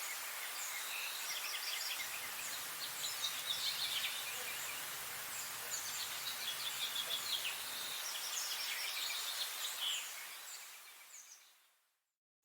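Spring-morning bird chorus: several birds chirping and trilling in quick short notes over a steady background hiss, fading out to silence near the end.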